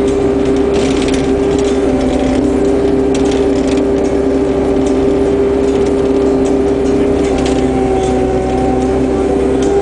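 Takeuchi skid steer's diesel engine running at a steady throttle, heard from inside the cab, with a constant whine over the engine hum and scattered light clanks and knocks.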